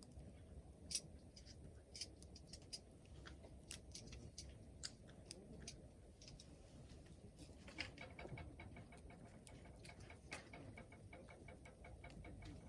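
Wood fire crackling softly over a low rumble of flames, with irregular sharp pops, one louder pop about a second in and another about eight seconds in, then a run of quick small ticks.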